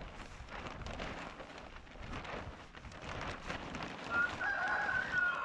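A rooster crowing once near the end, a long held call that drops in pitch as it trails off, over scattered scuffing and rustling.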